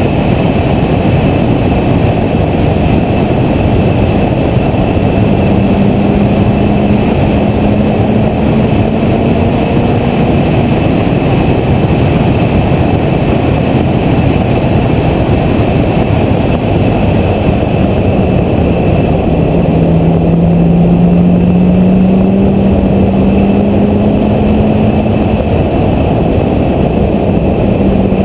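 C6 Corvette ZR1's supercharged 6.2-litre V8 pulling on track, its engine note twice rising slowly in pitch as the car gains speed, over a steady, dense rush of wind and road noise.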